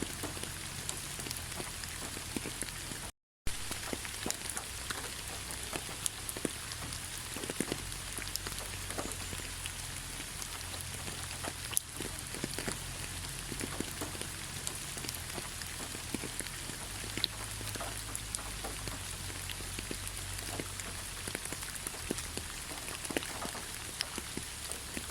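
Steady rain falling, with many individual drops ticking close by over an even hiss and a faint low rumble. The sound cuts out completely for a split second about three seconds in.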